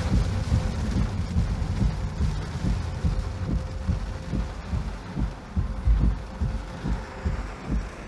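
Typhoon wind buffeting the microphone in irregular low thumps, over a steady hiss of rain.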